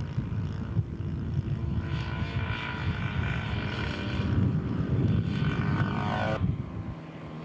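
Engine of a radio-controlled scale model airplane, a Pietenpol Air Camper, in flight during a go-around. The engine whine comes in about two seconds in, drops in pitch as the plane passes, and cuts off abruptly about a second before the end, over a low wind rumble on the microphone.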